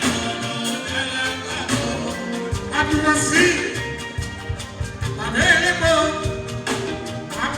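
Fuji band music: a singer's voice rising and falling over dense, quick drum and percussion strokes.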